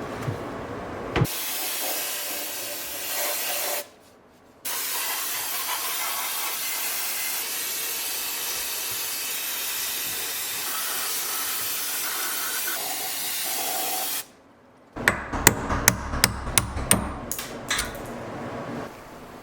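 A long, steady hiss of spray, broken once for about half a second a few seconds in, followed near the end by a rapid series of sharp knocks.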